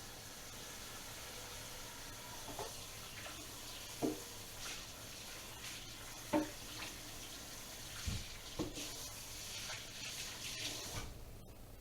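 Water running at a kitchen sink, with several separate clinks and knocks of kitchenware; the running water stops near the end.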